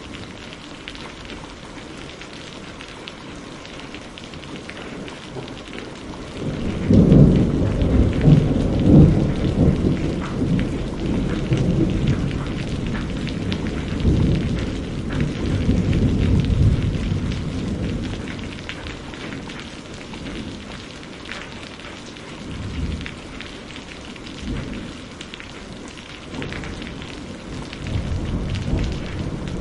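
Steady rain falling, with a thunderclap about a quarter of the way in that breaks into a loud, low rolling rumble lasting some ten seconds, then fading back to rain with fainter rumbles later.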